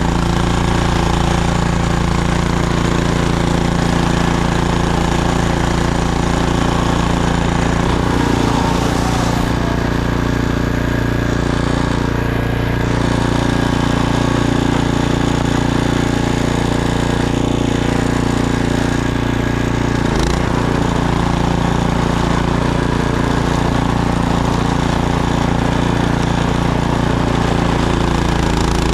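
Gas snowblower engine running steadily, with one brief knock about two-thirds of the way through.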